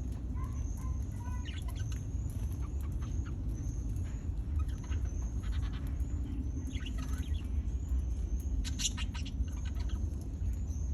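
Small aviary birds, budgies and finches, chirping and chattering in short clusters, over a short high peep repeated about twice a second and a constant low rumble.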